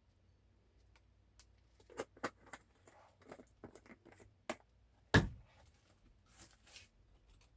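Kitchen items being handled: a run of irregular light clicks and taps, then one loud thump about five seconds in, like something set down heavily or a cabinet shutting, and a couple of soft rustles after it.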